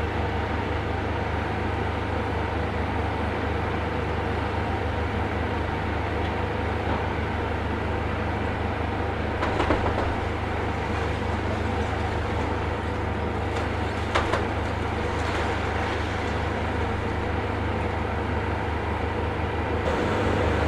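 Demolition machinery running steadily with a low engine hum, with brief crunching of debris about ten and fourteen seconds in.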